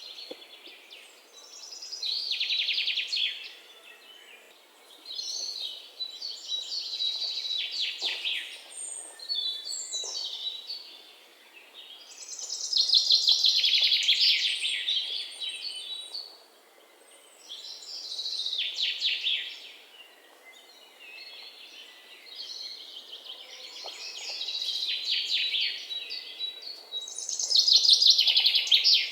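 A songbird singing: high-pitched phrases of rapid trills, many sliding down in pitch, repeated every few seconds with short pauses between, over a faint background hiss.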